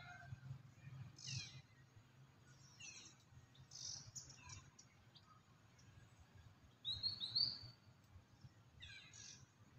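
Birds chirping in short, high, falling calls every second or two, the loudest a brighter burst of calls about seven seconds in, over a faint low steady hum.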